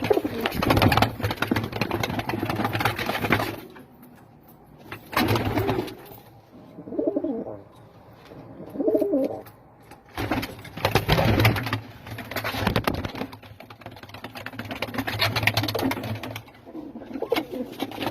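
Domestic pigeons cooing, with several loud bursts of rustling noise in between.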